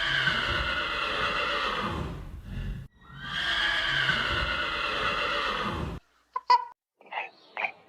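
Horse whinnying: two long neighs of about three seconds each, one after the other. About six seconds in they cut off abruptly, followed by a single sharp click and a run of short, clipped animal calls.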